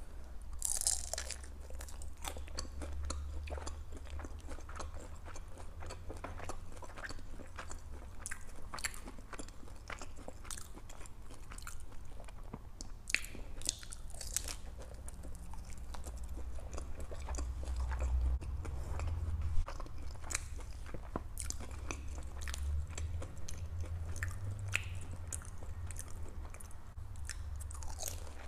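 Close-miked chewing and biting of pieces of a crispy fried egg roll: a steady run of small crunches.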